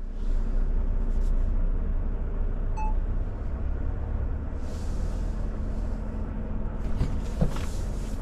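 Volvo FH truck's diesel engine running under way, heard from inside the cab as a steady low rumble. A short electronic beep sounds about three seconds in, and brief bursts of hiss come about five seconds in and again near the end, with a few clicks.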